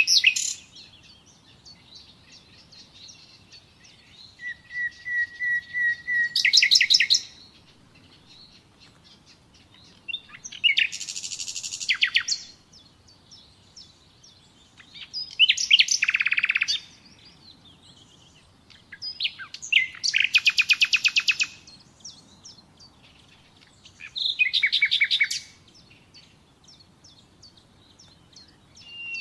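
Nightingale singing: about five separate phrases, spaced by pauses of two or three seconds, made of fast runs of repeated notes and trills. One phrase opens with a long, steady whistle that breaks into a rapid rattle.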